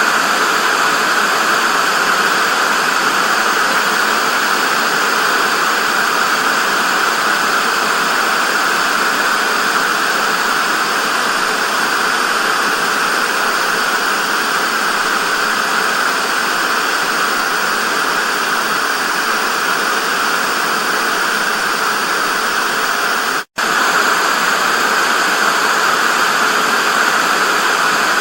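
Analogue TV static: a steady hiss, strongest in the mid-range and thin in the bass. It drops out to silence for a split second about 23 seconds in.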